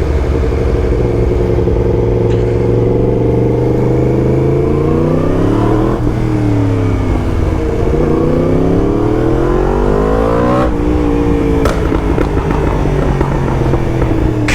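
Yamaha MT-10's crossplane inline-four running through an Akrapovic titanium full exhaust system while riding. The engine note holds steady, then rises as the bike accelerates, dips at a gear change about six seconds in, and climbs again. It drops sharply near eleven seconds as the throttle closes, followed by a single sharp crack.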